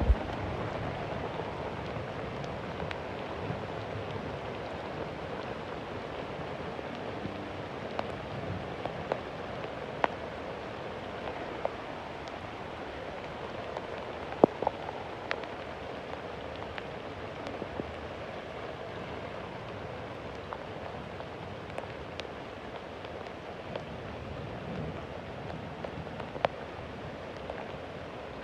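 Steady rain falling, with scattered sharp drops hitting close by; the loudest comes about halfway through.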